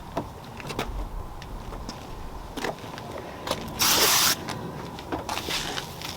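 A short hiss of a trigger spray bottle of car sealant, one burst about half a second long about four seconds in, among light knocks and rubbing of the cloth on the bodywork.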